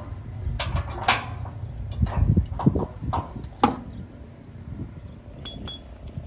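A handful of sharp metallic clinks and knocks over a steady low rumble, with a brief high ringing tone near the end.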